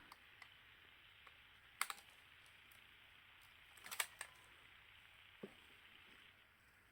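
A few sharp clicks and taps of a small screwdriver working at a screw in a camera body: one about two seconds in, a quick cluster about four seconds in and a faint one later, over a faint steady hiss.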